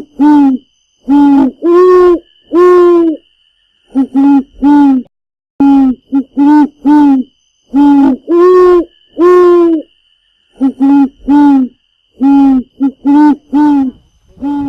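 White woodpecker calling: loud, nasal, pitched notes in runs of two to four quick calls, alternating with longer, slightly higher drawn-out notes about a second apart.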